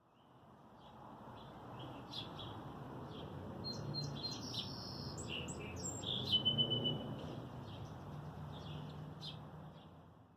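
Several small birds chirping and singing over a steady hiss, fading in at the start and out near the end.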